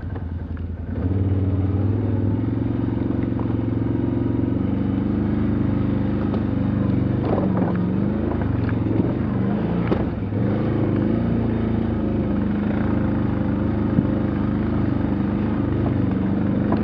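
Vehicle engine revving up about a second in and pulling in low gear, its pitch wavering up and down midway as the revs change, with a couple of short knocks.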